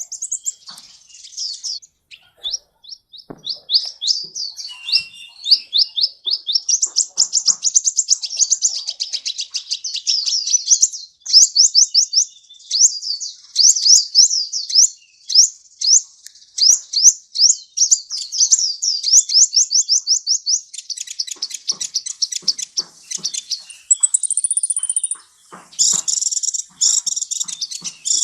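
Sunbird (Indonesian 'kolibri') singing: long, fast runs of high, thin sweeping notes strung into trills, with a short high buzzing note near the end.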